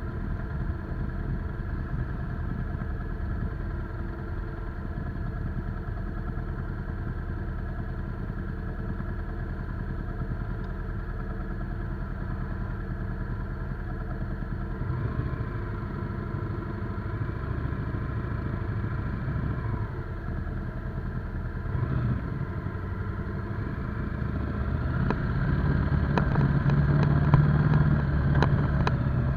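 Motorcycle engine running at a steady, low speed, then growing louder over the last few seconds as it picks up.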